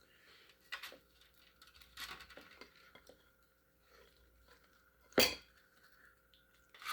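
Cutlery and dishes clinking: a few scattered short knocks, the loudest about five seconds in.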